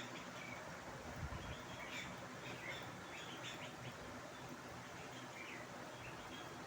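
Faint, scattered short chirps of young birds over a steady low background hiss, with a soft low thud about a second in.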